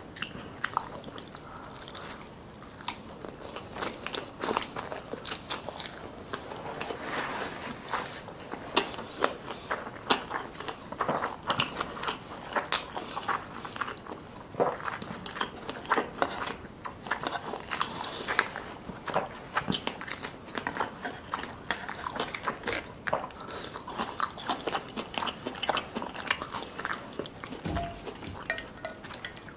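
A person chewing and crunching sushi close to the microphone, with many sharp, irregular crunches throughout.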